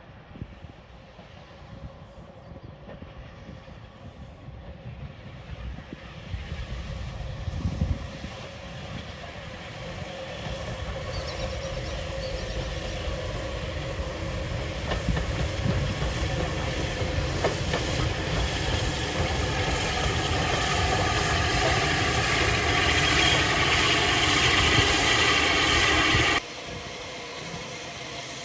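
A train drawing closer, its running noise building steadily louder over about twenty seconds with a mix of rumble and ringing tones, then cutting off suddenly near the end to a quieter rail sound.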